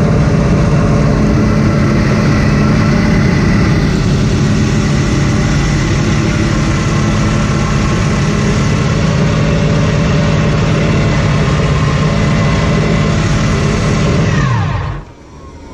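Porsche 917/10's turbocharged flat-twelve engine running at a steady pitch, then switched off about fifteen seconds in, its note falling quickly as it winds down.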